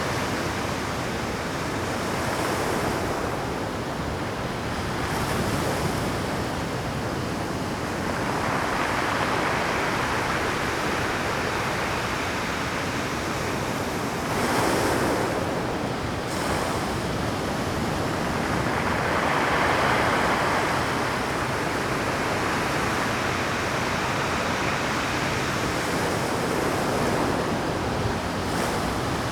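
Rough Pacific surf breaking on a rocky shore: a continuous roar of water that swells louder every few seconds as waves crash. The strongest crash comes about fifteen seconds in.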